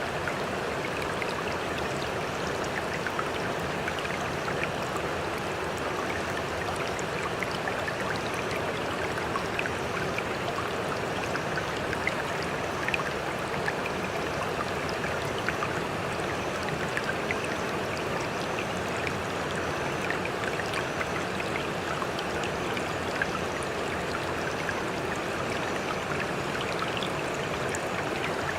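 Steady rushing water with scattered small splashes and droplet ticks. It stays even in level, with no rise and fall of separate breaking waves.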